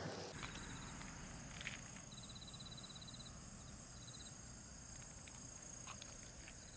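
Faint outdoor insect sound: short, rapid pulsed trills, the longest lasting about a second, over a steady thin high-pitched drone.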